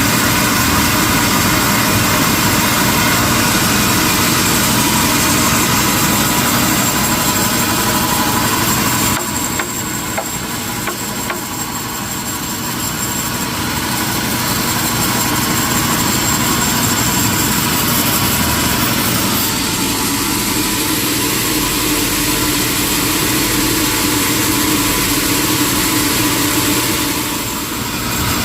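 Industrial sawmill machinery running with a steady, loud mechanical drone. It drops in level about nine seconds in, shifts again around twenty seconds, and dips briefly near the end.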